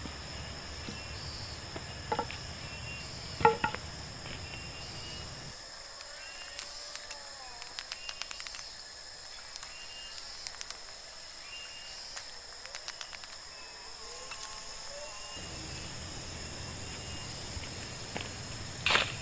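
Forest insect chorus, a steady high-pitched buzz, with scattered sharp clicks and knocks.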